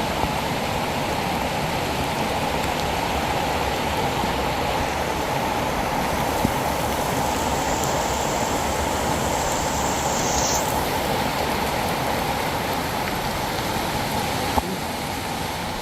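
Heavy rain falling, with rushing runoff water, as one steady noise that does not let up.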